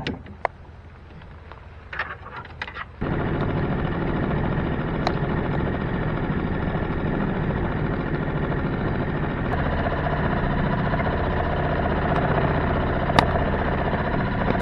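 A few handling knocks, then at about three seconds a Yamaha 2 hp outboard motor comes in abruptly and runs steadily.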